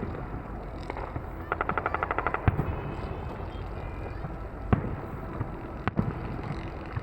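Fireworks going off: a rapid string of crackling reports, about a dozen in a second, ending in a loud bang. Two more single bangs follow a second or so apart.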